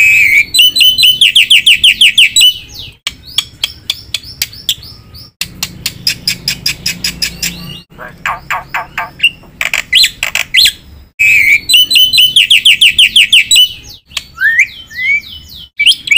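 Black-winged myna (jalak putih) singing loudly, with rapid runs of repeated chirps and whistles and mimicked phrases of other birds. The song comes in separate bursts of a few seconds, broken by short pauses.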